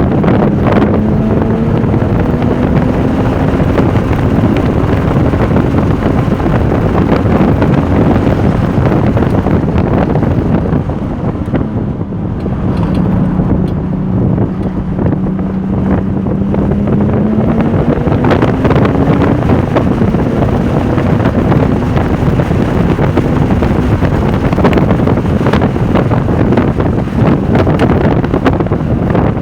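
Porsche 996 Turbo's twin-turbo flat-six running hard on track, its note climbing under acceleration early on and again after a brief lift about halfway through. Heavy wind noise on the microphone.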